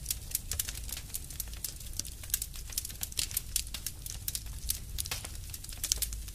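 Wood fire crackling: irregular sharp snaps and pops, several a second, over a low steady rumble of the burning.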